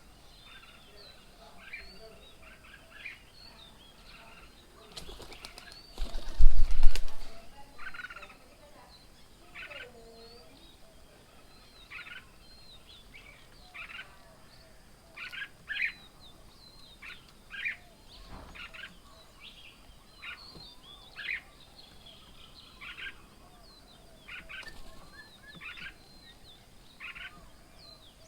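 Birds at a feeding table calling in many short chirps, with a loud flurry of wing flapping about five to seven seconds in.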